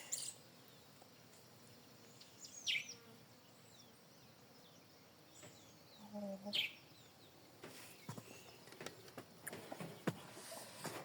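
Birds calling in a quiet morning setting: a few separate short, sharp calls that slide down in pitch, with faint scattered clicks in the later seconds.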